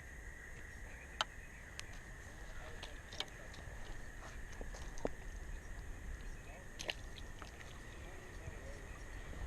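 Outdoor fishing-bank ambience: a steady high-pitched hum under a low rumble, with a handful of sharp clicks and taps from handling gear scattered through.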